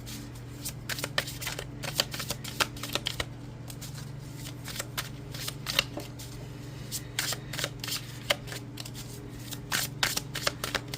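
A deck of oracle cards being shuffled by hand: quick clusters of card-edge clicks and riffles, with short pauses about four and nine seconds in.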